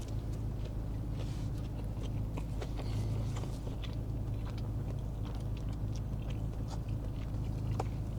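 Close-up chewing of a fried chicken sandwich, with small clicks and crunches of biting. A steady low hum runs underneath.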